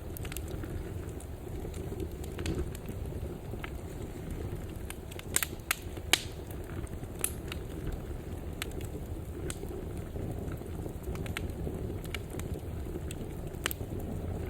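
Fire burning in a fireplace: a steady low rumble with scattered sharp crackles and pops, two louder pops a little past the middle.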